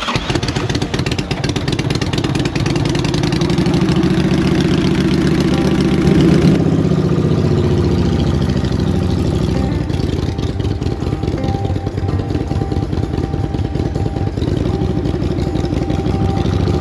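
Motorcycle engine running just after starting, its revs climbing over the first several seconds before it settles to a steadier run about six and a half seconds in.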